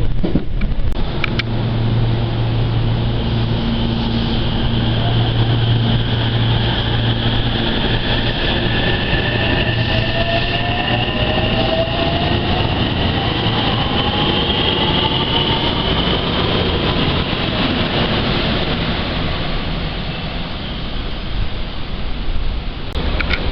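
JR West 227 series electric train running, heard from aboard, over a steady rumble of wheels on the rails. The whine of its inverter-driven traction motors climbs slowly in pitch through the middle as the train gathers speed.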